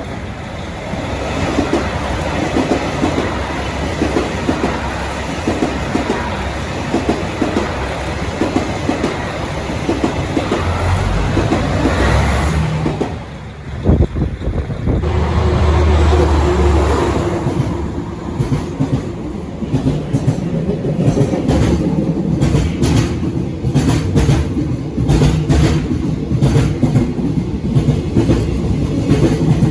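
Trains passing over jointed rail: the wheels clack rhythmically as each axle crosses the rail joints, over a steady rolling rumble. About 13 seconds in the sound dips briefly and changes. In the second half the clacks come sharp and evenly spaced.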